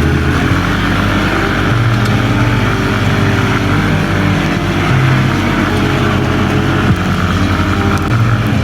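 Off-road buggy engine running under way, its pitch stepping up and down as the throttle changes, over a steady rush of wind and driving noise.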